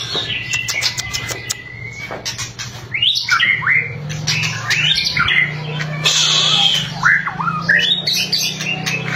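White-rumped shama (murai batu) singing: a quick series of sharp crackling clicks in the first couple of seconds, then varied whistled phrases with rapidly rising and falling notes. A steady low hum runs underneath.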